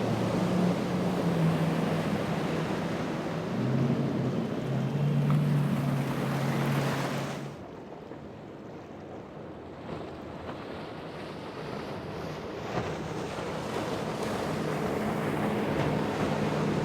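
Boat engines humming and changing pitch over surf and wind noise on the microphone. About seven seconds in the sound drops abruptly, then slowly builds again as an engine hum returns.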